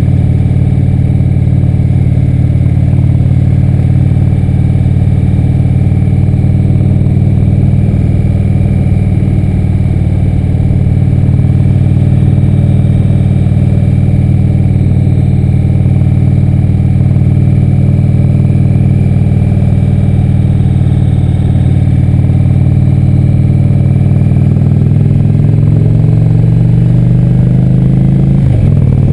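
Indian Chief Vintage motorcycle's V-twin engine running steadily while riding. Near the end the engine note rises as it accelerates, then breaks off suddenly for a gear change and picks up again lower.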